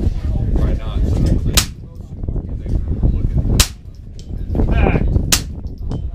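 Three .22 LR rifle shots, about two seconds apart, each a sharp crack with a short ringing tail.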